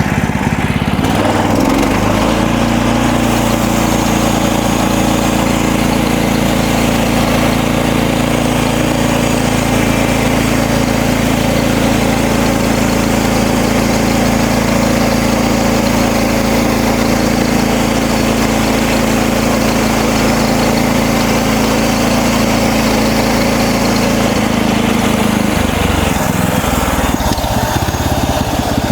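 The gas engine of a MechMaxx manual bandsaw mill revs up about a second in and runs steadily at speed while the band blade saws a half-inch slab off a cedar log. About 25 seconds in the engine note changes and drops.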